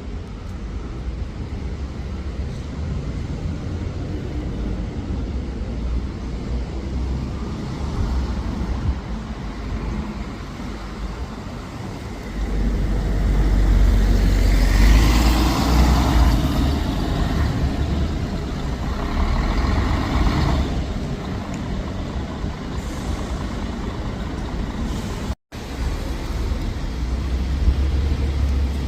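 Diesel buses running at the roadside: a steady low engine rumble grows louder about twelve seconds in as a bus comes close, with a hiss of air brakes around fifteen seconds. The sound cuts out for a moment a few seconds before the end.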